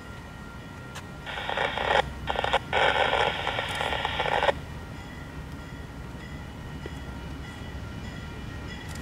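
Train running, a low rumble throughout, broken by a loud sound in three parts from about one to four and a half seconds in.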